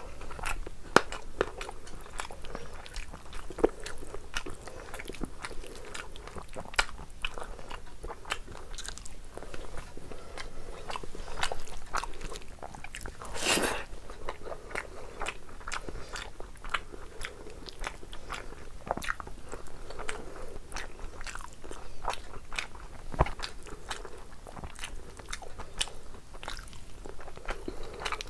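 Close-miked chewing and wet mouth sounds of a person eating rice and curry, a steady run of small clicks and smacks, with fingers squishing food in a plate. One short, louder rushing sound comes about halfway through.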